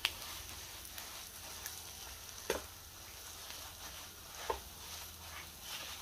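Boiled mashed potatoes being stirred into spiced onions in a hot kadhai: a soft sizzle in the oil, with the utensil scraping and knocking against the pan now and then, the sharpest knocks about two and a half and four and a half seconds in.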